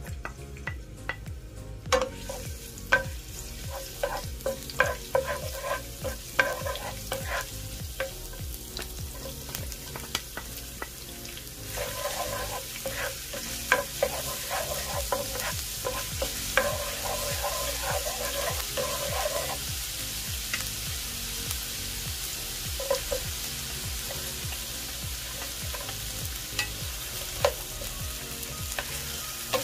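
Garlic, ginger and onion sizzling in hot oil in a nonstick frying pan, stirred with a wooden spatula that taps and scrapes the pan. The sizzle gets louder about twelve seconds in, and the tapping and scraping come in clusters through the first two-thirds.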